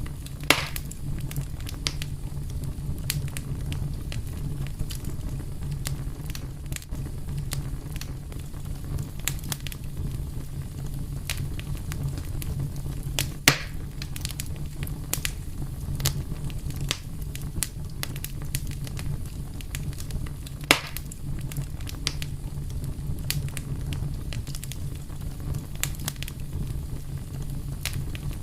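Wood fire burning with a steady low rumble and frequent small crackles, and three louder sharp pops: about half a second in, about halfway through, and about three-quarters of the way through.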